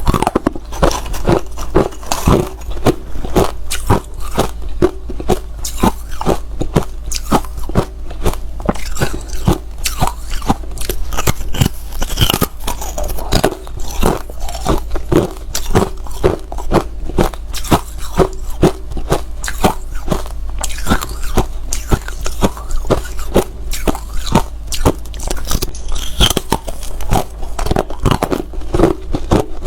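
Hard ice being bitten and chewed close to the microphone: sharp, loud crunches coming a few times a second.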